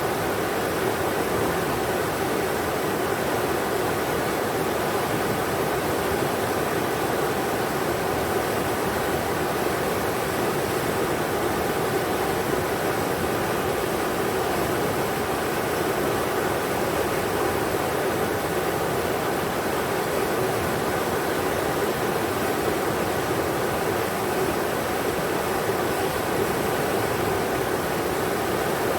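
Englishman River rushing over rocks: a steady, even roar of moving water with no breaks.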